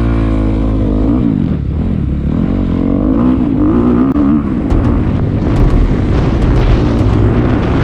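Dirt bike engine revving, its pitch rising and falling over the first few seconds as the bike pulls away. It turns to a rougher, noisier sound with sharp crackles from about halfway through.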